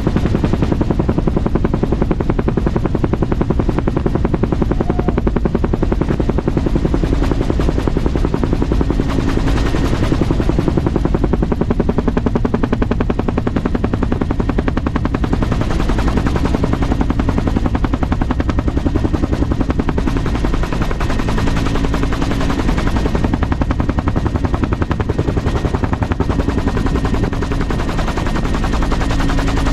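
Aircraft running close by with a loud, rapid and steady pulsing, the chopping beat of a helicopter rotor or of a piston propeller engine.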